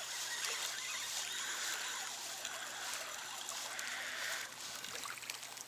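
Water splashing and trickling with many small crackling splashes, as a hooked white bream thrashes at the surface beside the boat. It eases off somewhat near the end.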